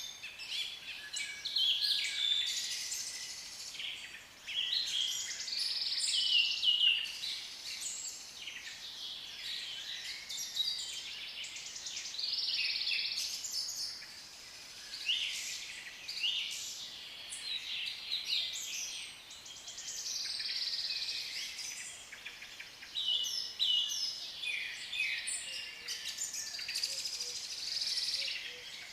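African lovebirds chattering: a dense, unbroken run of short, high chirps and squeaks, many calls overlapping.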